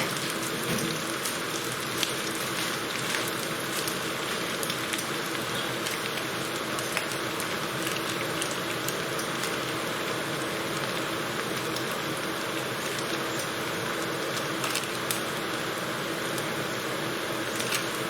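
Onions, peppers, chillies and garlic frying in a pan: a steady sizzle with scattered small crackles.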